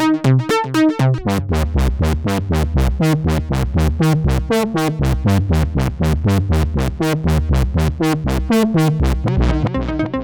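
Roland SE-02 analog monophonic synthesizer, a Minimoog-style design, playing a fast sequenced line of short, bright notes. About a second in, the line drops into a low bass register, and near the end the tone turns duller as the sound changes.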